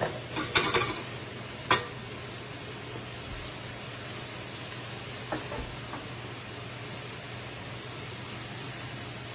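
Sausage sizzling steadily in a frying pan, over a low steady hum. A couple of sharp clicks in the first two seconds, a utensil against the pan, and a faint knock about five seconds in.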